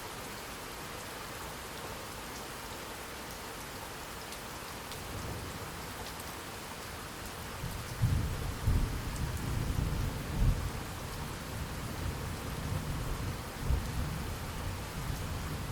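Steady rain falling, with thunder rumbling in about a third of the way through and rolling on in heavy low peals to the end.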